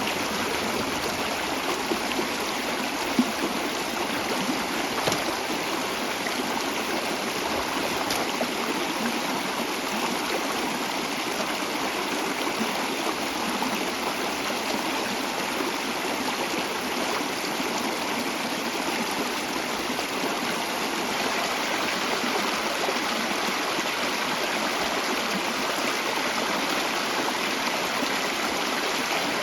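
Mountain stream rushing steadily over rocks, an even wash of flowing water.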